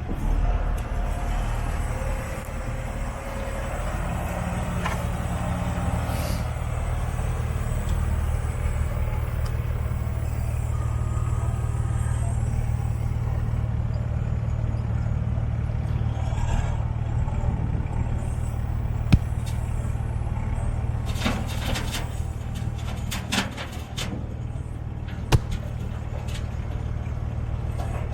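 Diesel engine running steadily, with a few sharp knocks and clanks in the second half.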